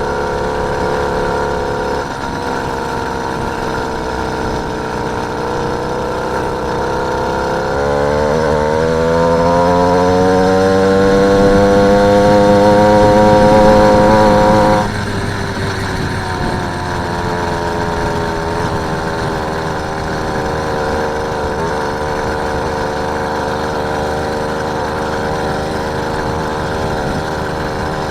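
Small engine of a motorised bike running under way; about a third of the way in it speeds up, its pitch climbing steadily for several seconds, then drops abruptly as the throttle is let off, and it goes back to running steadily.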